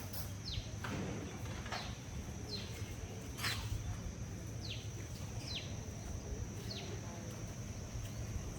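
Outdoor birdsong: a bird repeats short, sharp calls that sweep downward in pitch, roughly one a second, over a steady high-pitched insect drone.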